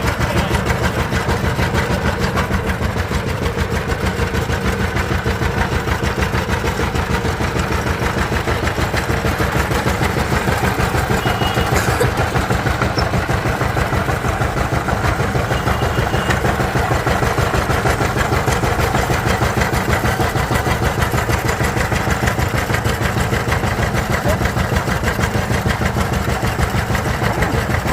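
Diesel engine running steadily at an even speed, with a rapid regular firing beat and no change in pace.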